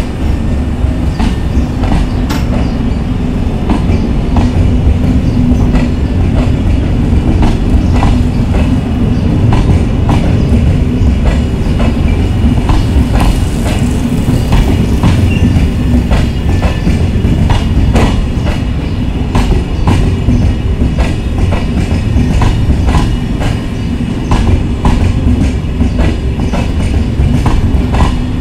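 A passenger train rolling past at close range: a steady heavy rumble of wheels on the track, with the clickety-clack of the wheels over the rail joints.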